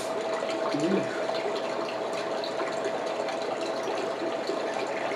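Steady hiss with a constant hum, and faint scattered clicks of chewing and mouth sounds.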